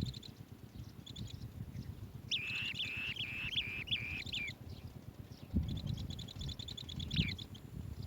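Asian green bee-eater calling: a loud run of short trilled notes lasting about two seconds, then a quicker series of short chittering notes a little later. A low rumble sits underneath.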